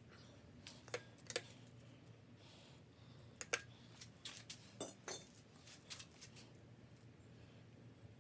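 Scattered light metallic clinks and taps of tools and small parts being handled while taking apart a Volkswagen 1600 air-cooled engine. There are about a dozen short strikes in small clusters, over a faint steady hum.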